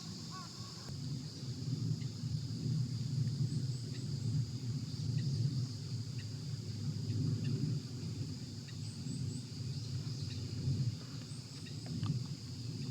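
Outdoor ambience: a steady, high insect buzz over a low rumble, with a few faint high bird chirps. A couple of arched calls in the first second, likely a crow cawing.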